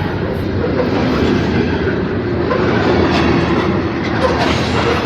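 Freight train's covered hopper cars rolling past close by: a steady loud rumble of steel wheels on the rails with some clatter.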